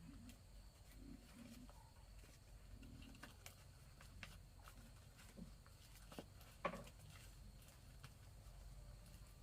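Near silence: faint scattered clicks and light knocks, one sharper knock about two-thirds of the way through, with a few short low hums in the first three seconds.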